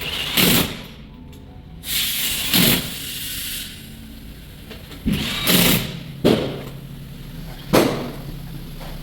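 Tyre-shop tools and machinery at work on a car wheel: about six short, loud hissing or buzzing bursts, in two pairs and then singly, over a steady low hum.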